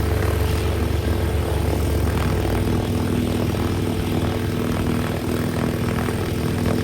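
Cessna 172's piston engine and propeller running steadily, a low drone with a steady hum above it. The lowest part of the drone eases a little about two and a half seconds in.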